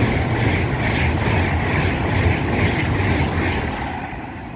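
A Class 390 Pendolino electric train passing through: a steady rush of wheels and air over a low rumble, fading near the end as it goes by.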